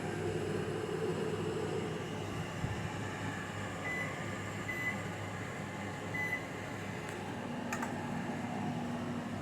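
Mainstays microwave oven running at reduced power: a steady hum of fan and transformer whose tone shifts as the magnetron cycles on and off. Three short high beeps come in the middle, and a click follows near the end.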